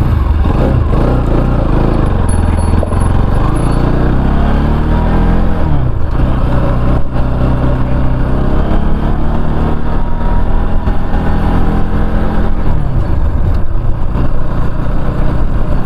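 Motorcycle engine running under way, its pitch climbing as it accelerates, dropping back about five seconds in and again near the end, then climbing once more, as through gear changes.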